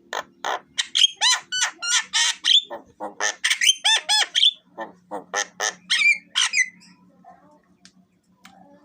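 Javan myna calling: a rapid run of harsh squawks mixed with clear whistled notes, some sliding up or down, for about seven seconds before stopping.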